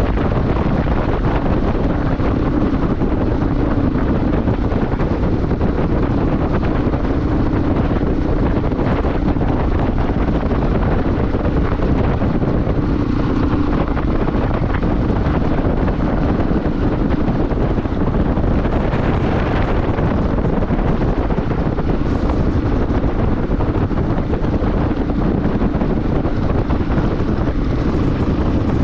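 Wind rushing over the microphone of a moving motorbike, with the engine's steady drone underneath and no change in speed.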